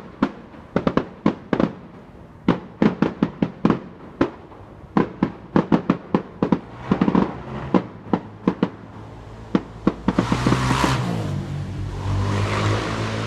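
Fireworks going off in a rapid, irregular string of sharp bangs, a few a second. About ten seconds in the bangs give way to a steady rushing hiss with a low drone beneath it.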